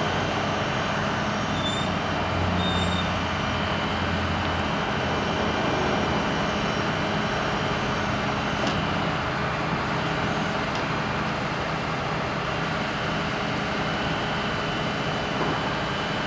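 Cummins 6.7-litre diesel engine of a RAM 5500 bucket truck running steadily, powering the hydraulic boom.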